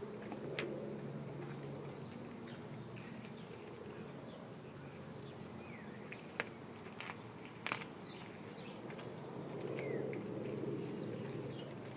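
Dog chewing raw chicken quarters, bones and all, with a few sharp crunches over a steady low hum.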